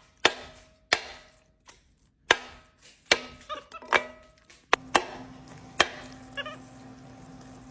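Knife chopping onions on a cutting board: single, irregular strikes, roughly one every half second to a second. About five seconds in, a steady low hum starts and continues.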